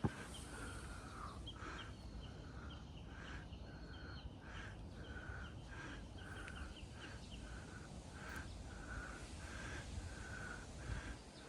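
A bird calling over and over, short calls about twice a second, with quick higher chips from another bird during the first half, over a low rumble of wind on the microphone.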